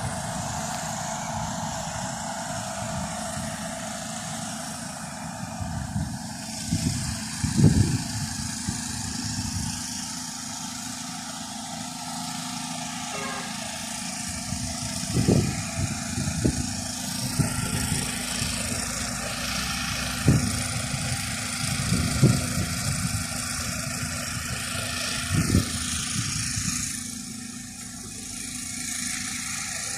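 Outdoor ambience: a steady rushing background noise with about five short, low thumps scattered through it.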